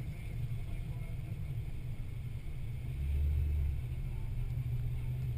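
A Jeep's engine runs at low speed while it drives slowly along a sandy track, heard as a steady low rumble. The rumble swells for about a second, three seconds in.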